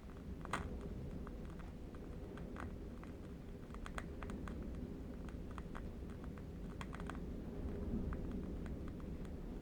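Irregular crackling of a burning candle wick, scattered sharp ticks, over a low, steady rumble of distant wind.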